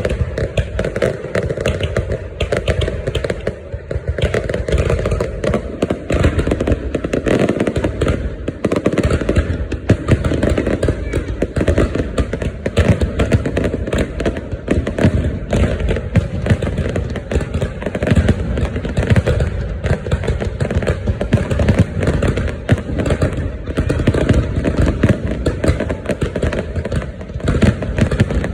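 A big fireworks display going off continuously: many shells and crackers bursting so close together that the bangs and crackles merge into one dense, unbroken barrage.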